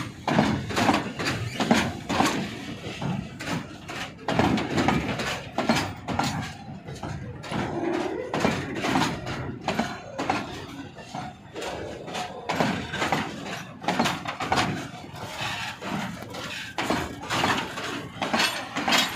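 Freight train's wagons rolling slowly past, the steel wheels and couplings clanking and knocking irregularly.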